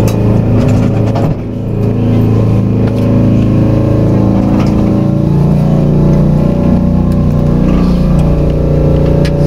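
Tokyu Setagaya Line railcar running, heard from inside the car: its motors whine in several steady tones that shift in pitch about halfway through, over a low rumble of wheels on track.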